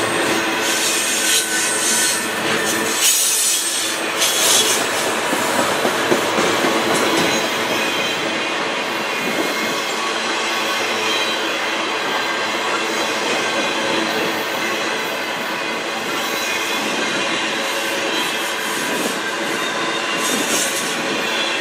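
Autorack freight cars rolling steadily past on the rails: a continuous rumble and rattle of wheels and car bodies, with high-pitched wheel squeal in the first few seconds and again near the end.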